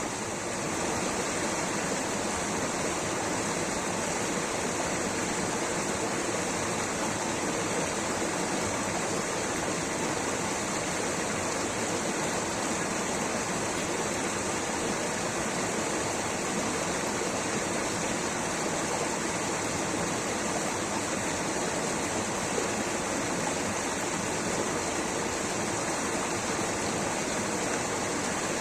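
Rushing water of a waterfall, a steady, even rush with no change throughout.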